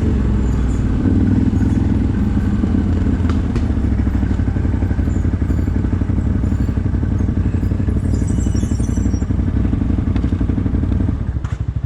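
CFMOTO 1000 ATV's V-twin engine running steadily under way, with light clatter. A brief high scratchy sound comes about two-thirds of the way in, and the engine drops to a lower, quieter note near the end.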